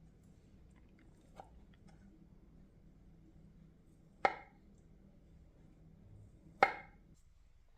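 Two sharp knocks on a hard surface, about two and a half seconds apart, each with a short ring, after a faint tick. A faint steady hum runs under them and cuts off near the end.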